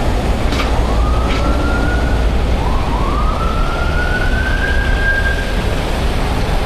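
Heavy diesel engine rumble with a high whine that climbs in pitch and holds, twice, then starts climbing again near the end. Two light clicks come about a second in.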